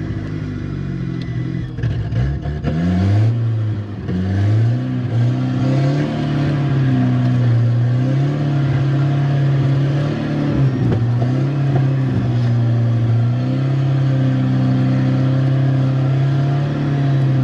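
Rally car engine revving hard. It climbs in steps over the first few seconds, then is held high with repeated small drops and rises in revs.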